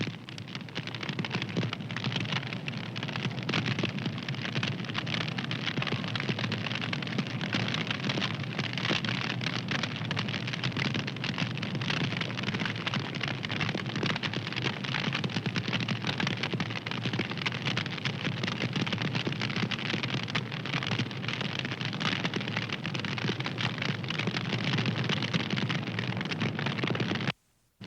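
Wood fire crackling and popping steadily, a dense run of small snaps over a soft hiss. The sound cuts out for about half a second near the end.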